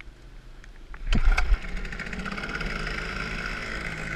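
A small pit-bike motorcycle engine starts about a second in with a sudden loud burst, then runs steadily.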